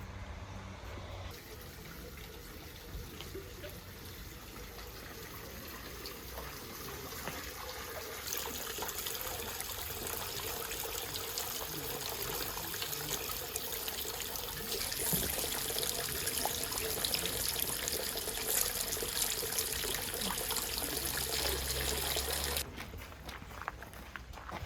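Running water, a steady rushing hiss that steps louder at a few abrupt changes, sounding like several short clips joined together.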